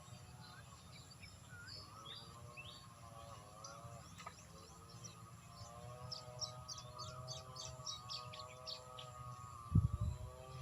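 Birds chirping repeatedly, more densely in the second half, over a faint steady hum. A low thump comes near the end.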